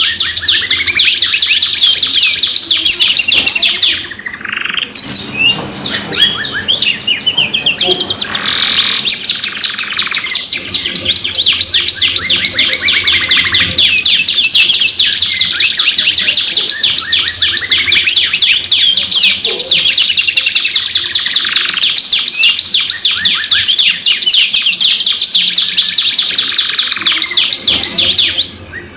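Domestic canary song: long, loud, fast rolling trills and chirps that run on with only brief breaks, one about four seconds in and one near the end.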